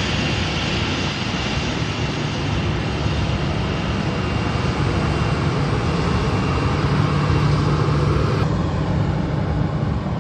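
Jet aircraft engines at speed: a loud, steady rush of engine noise with a faint high whine. The upper part of the sound drops away suddenly near the end.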